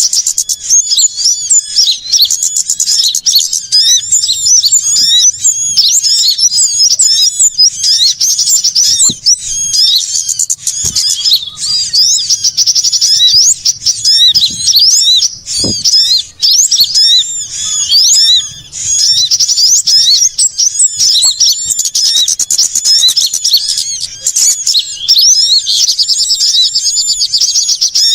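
A busy, noisy chorus of many small songbirds: fast, high-pitched chirps and trills overlapping without a break. It is a bird-lure recording played to call small birds such as sunbirds in to a trap.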